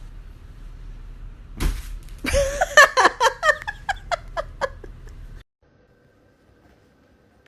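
A sudden smack, then a person laughing in a quick run of about eight short high-pitched bursts that fade away.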